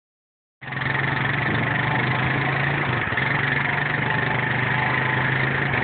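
Tractor engine running at a steady speed, starting about half a second in.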